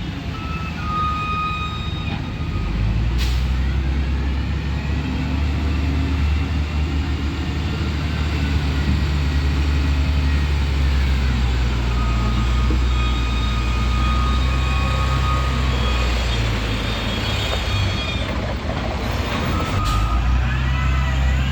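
Heavy diesel engine of an SEM 655D wheel loader running hard while working, its note rising about two and a half seconds in and easing off near the end. There are two brief sharp sounds, one about three seconds in and one near the end.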